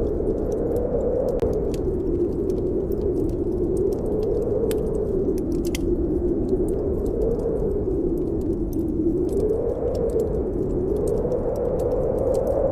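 Snowstorm wind howling, its pitch swelling and falling every few seconds over a steady low rumble, with scattered small crackles and pops from a wood fire in a fireplace.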